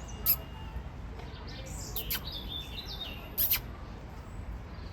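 Birds chirping: a few short, sharp calls, the loudest about a third of a second in and again around three and a half seconds in, with quicker chirps in between.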